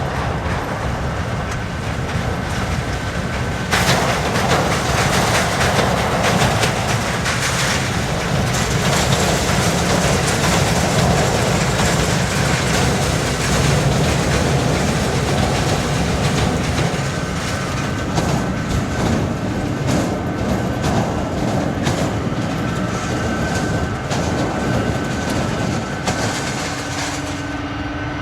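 Jet roar from a C-17 Globemaster III's four turbofan engines. It swells sharply about four seconds in, stays loud for about twelve seconds, then slowly eases off.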